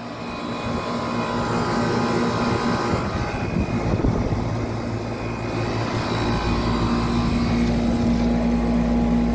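Outdoor condensing unit of a 1995 Tempstar central air conditioner running, a steady compressor hum with fan noise, growing louder over the first couple of seconds. It is running normally.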